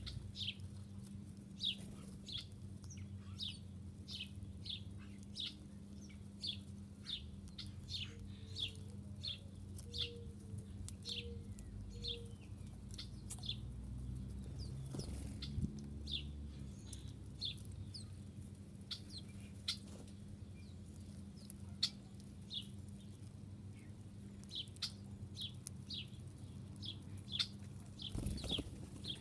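Small birds chirping: short, high chirps repeated a few times a second, thinning out in the middle, over a steady low hum.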